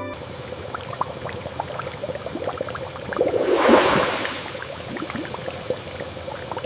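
Hot-spring water bubbling, with many small plops, and a louder rush of water a little past halfway.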